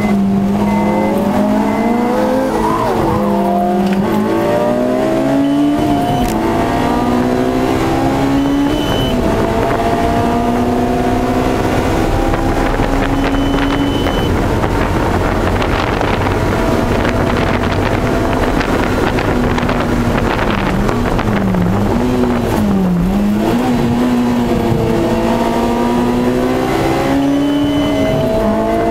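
Honda S2000's four-cylinder engine at high revs on track, heard from inside the cabin: the pitch climbs steadily through each gear and drops at each shift, with a few quick dips and rises in pitch about two-thirds of the way through.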